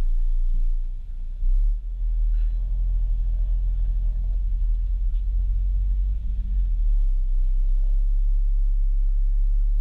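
Integra's four-cylinder engine heard from inside the cabin, idling with a short knock about a second and a half in, then pulling the car forward at low revs for a few seconds with a slight rise in pitch before settling back to idle.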